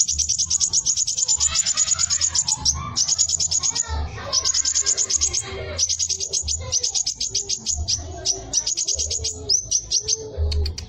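Sunbird (the bird Indonesian keepers call kolibri) singing a loud, high, rapid trill of about a dozen quick falling notes a second, in repeated bursts with short breaks, and a few separate notes near the end.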